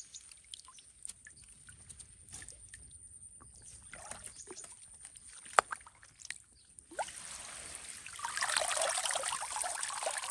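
Water splashing and trickling: at first only small scattered splashes and drips, with one sharp knock about halfway, then from about seven seconds in a steady pouring and trickling of water that grows louder.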